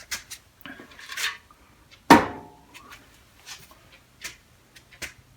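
Old steel Craftsman toolbox being handled: a run of light clicks and clinks, with one loud metal clank about two seconds in that rings briefly.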